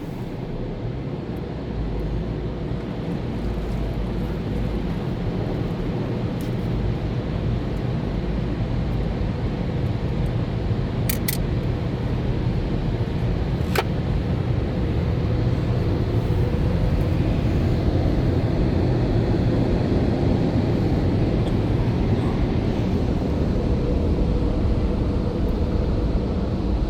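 A car running, a steady low rumble of engine and road noise that grows gradually louder, with a couple of brief clicks partway through.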